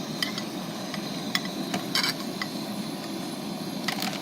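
A gas burner running steadily, with a few sharp metal clinks and knocks as a large pan is set and shifted on it.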